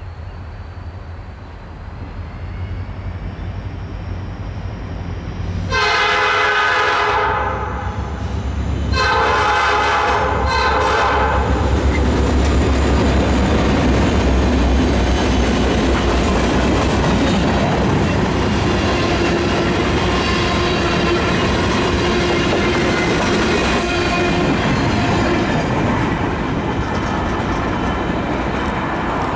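Two EMD SD40-2 diesel locomotives approaching and passing, their two-stroke engines running with a heavy low throb, the lead unit sounding two horn blasts about six and nine seconds in. A short string of freight cars follows, wheels clicking over the rail joints as they roll by.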